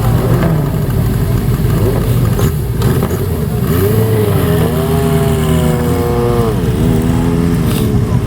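Motorcycle engines running as bikes ride in, with one engine revving up, holding and dropping back in the middle.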